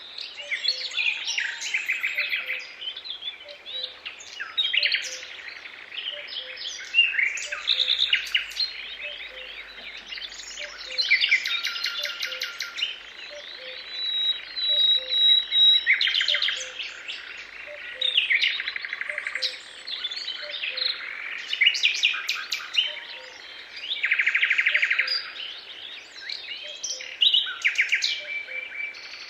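Several songbirds singing in a natural chorus, with overlapping whistled phrases and fast trills. A faint low note repeats about twice a second underneath.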